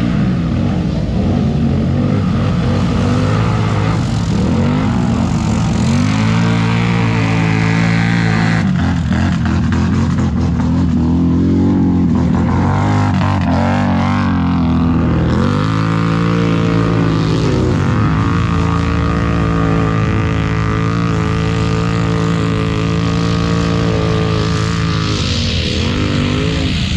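ATV engines running and revving, their pitch rising and falling again and again.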